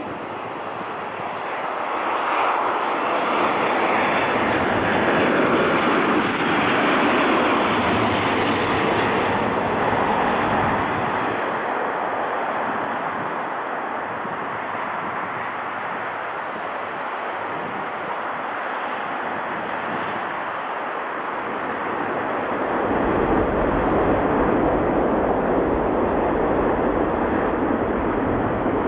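Jet airliner engines passing. The noise swells over the first few seconds with a high, wavering whine on top, eases off in the middle, then builds again as a deeper rumble about 23 seconds in.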